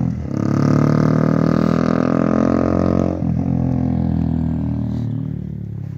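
Honda CBR125R's single-cylinder four-stroke engine revved and held, its pitch creeping up. The throttle closes about three seconds in and the revs fall back slowly toward idle.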